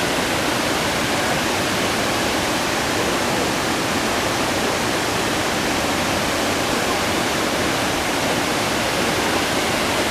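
Waterfall: water pouring down in a loud, steady, unbroken rush.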